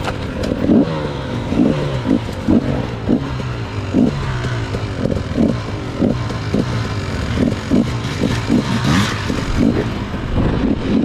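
Enduro dirt bike engine revving up and down over and over, in short bursts of throttle, with a steady engine note beneath and some clatter.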